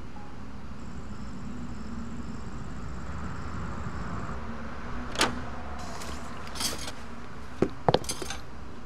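Steady low background rumble, then a few sharp clicks and a short rattle of keys and a door latch in the last few seconds as a door is unlocked and opened.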